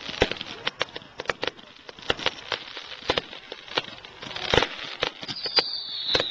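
Fireworks going off: a run of sharp bangs and crackles at irregular intervals, the loudest about four and a half seconds in. From about five seconds in, a high whistle falls slowly in pitch.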